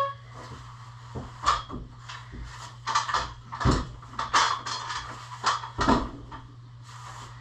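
A string of irregular knocks and clatters, about a dozen over five seconds, over a steady low hum.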